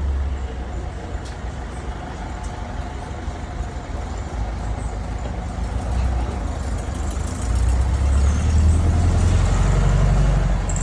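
Street traffic: a steady low engine rumble from passing vehicles, growing louder from about seven seconds in as a vehicle comes close, then easing off near the end.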